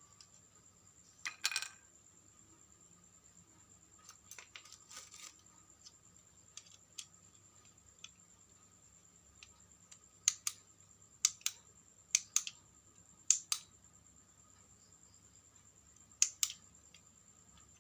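Sharp clicks and taps of small hard objects being handled: one cluster a little over a second in, a scattering of lighter taps a few seconds later, then clicks coming mostly in pairs about a fifth of a second apart.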